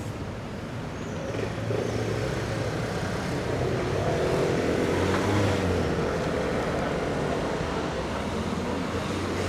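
Street traffic with a motor vehicle's engine growing louder from about a second in as it comes close, over a steady traffic hum.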